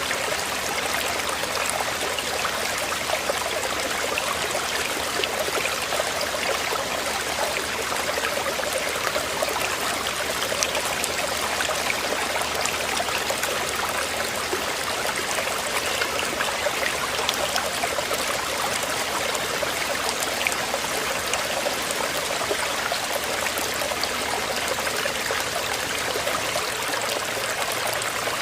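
Flowing water rushing steadily, an even, unbroken splashing hiss.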